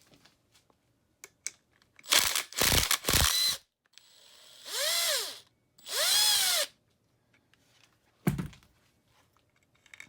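Cordless drill fitted with an 8 mm socket driving bolts out of a dirt bike engine: a loud harsh burst about two seconds in, then two short whirrs that each rise and fall in pitch as the trigger is squeezed and released, and a single knock near the end.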